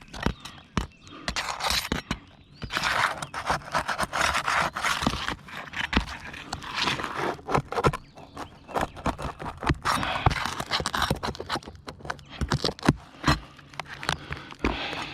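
Brittle roof shingles being scraped, pried and torn as a tool is worked underneath to reach the nails, with repeated scraping and sharp clicks and knocks. The shingles are so brittle that they tear rather than lift.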